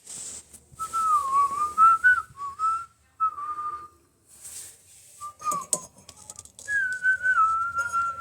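A person whistling: a single wavering note held in short phrases with pauses. A few sharp clicks come about two-thirds of the way through.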